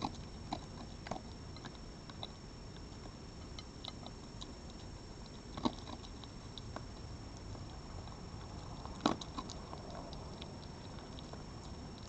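An animal eating at a garden feeding spot: scattered small crunches and taps, with two louder knocks a little after halfway and about three quarters of the way in, over a steady background hiss.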